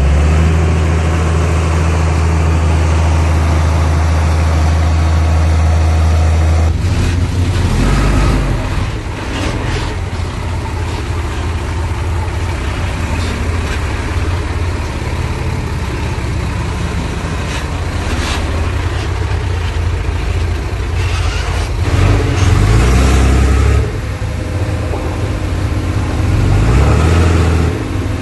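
Heavy diesel engine of earthmoving machinery running, holding a steady low note for the first several seconds, then revving up and down a few times, with scattered clanks and rattles.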